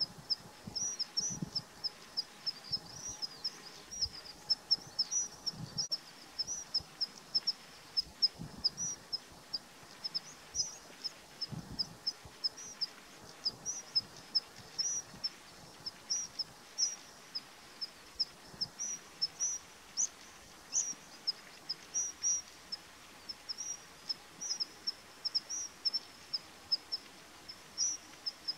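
A small bird chirping on and on in short, high notes, several a second, some rising and falling, with a few soft low thumps underneath.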